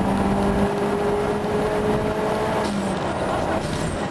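Toyota Starlet Glanza's 1.3-litre four-cylinder engine pulling under way, heard from inside the cabin over road noise; its pitch climbs slowly, then changes about two and a half seconds in.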